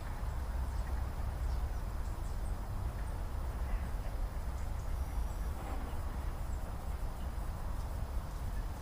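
Lakeside ambience: a steady low rumble with faint, scattered calls of waterfowl.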